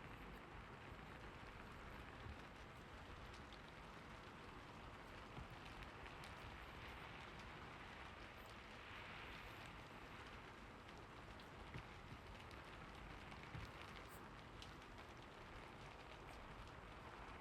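Faint, steady rain with occasional light ticks.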